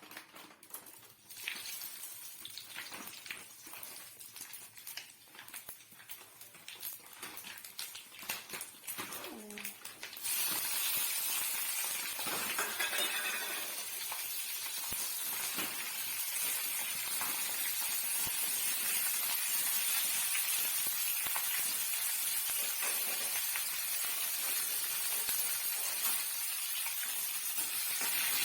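Scattered clicks and knocks of kitchen work, then about ten seconds in a steady sizzle starts up as food begins frying in hot oil in the pan.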